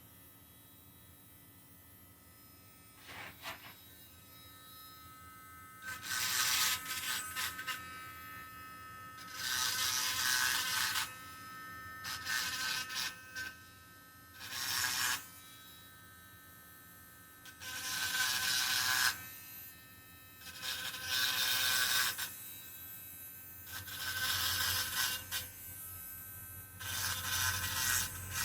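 Small handheld electric rotary tool with a grinding burr deburring the rough cast edges of an engine block. It comes in about eight bursts of a second or two each, a high whine with a rasping grind as the burr bites the metal, with quieter pauses in between.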